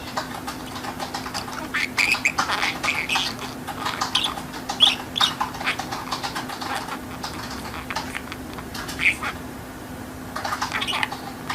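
Budgerigar chattering and warbling in a run of short, scratchy, high chirps with brief pauses.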